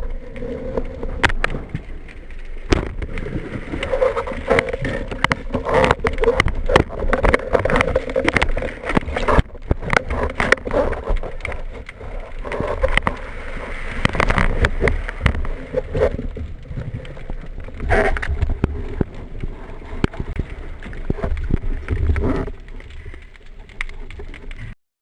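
Water sloshing and gurgling close to the camera, with many sharp knocks and clicks throughout. The sound stops abruptly near the end.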